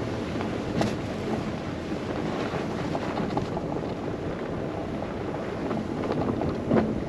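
Steady rushing of blizzard wind and driving, with a few short knocks about a second in and again near the end.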